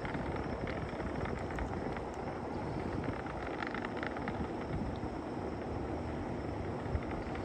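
Falcon 9 first stage's nine Merlin engines in ascent, heard from miles away as a steady low rumble with scattered crackles.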